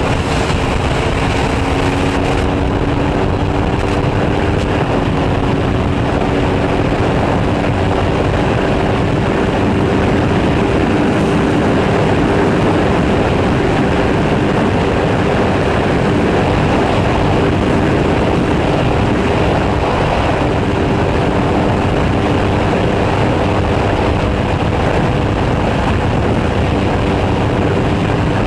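Aprilia Tuono V4 1100's V4 engine running at a steady cruising speed, its pitch drifting only slightly, over a constant rush of wind noise.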